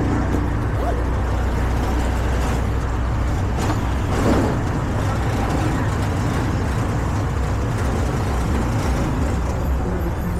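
Street ambience dominated by a steady rumble of road traffic, with a brief swell about four seconds in.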